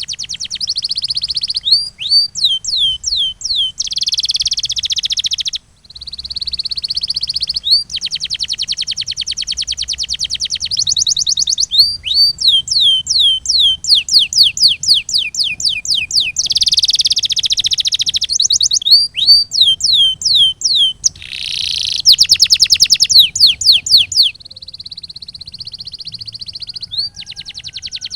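Canary singing a long, continuous song, switching every second or two between rapid high rolling trills and runs of fast downward-swooping notes. There is one brief pause about six seconds in, and the song is loudest at a high rapid trill a little past the twenty-second mark.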